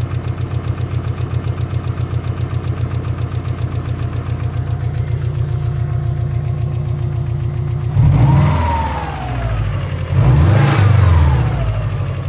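Car engine idling cold with a knocking sound, the complaint a cold engine is filmed for. In the last few seconds it is revved twice, the revs rising and falling back to idle each time.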